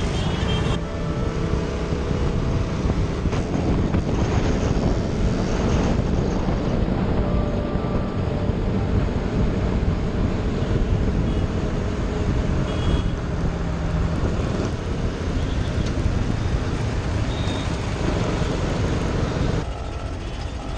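KTM Duke 200's single-cylinder engine running while riding, under heavy steady wind rumble on the helmet-mounted action camera's microphone.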